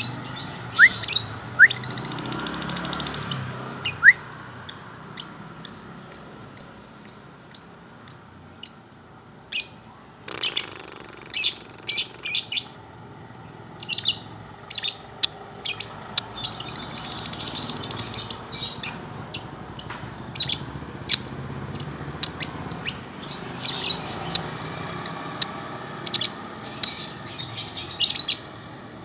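Songbirds chirping in a calling duel, sharp short high notes repeated in quick runs all through, with a few brief rising whistles in the first seconds.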